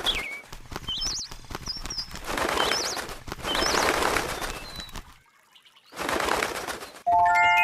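Bird chirping in short, quick calls between repeated bursts of rustling noise about a second long. A bright ringing chime sounds near the end.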